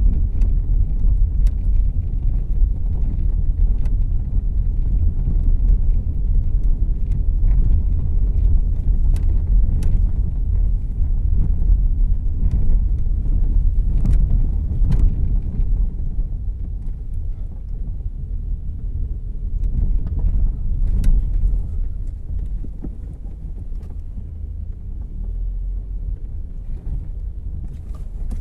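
Cabin sound of a 2014 Volkswagen Jetta Clásico on the move: a steady low road and engine rumble with scattered light clicks and knocks. It gets quieter through the second half.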